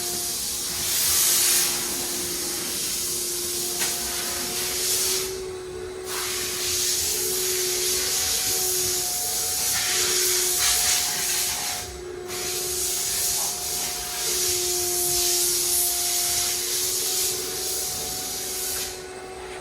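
A hissing high-pressure cleaning jet over a steady motor hum. The jet cuts off briefly about five and a half and twelve seconds in, and again near the end, while the motor keeps running.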